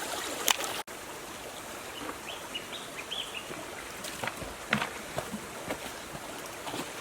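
Steady outdoor hiss with a few short, high bird chirps about two to three seconds in, and scattered light clicks.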